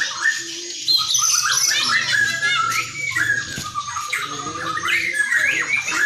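White-rumped shama of the Barito (Kalimantan) form, the murai batu Barito, singing a fast, continuous stream of varied whistled notes and chattering phrases.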